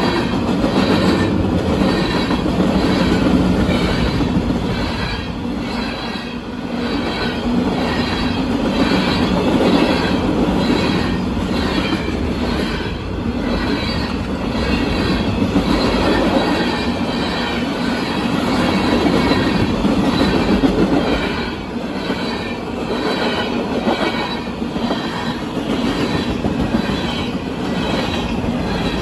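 Freight cars of a passing manifest train rolling by at speed, the wheels clattering over the rail joints in a steady, even rhythm, the loudness swelling and dipping as the cars pass.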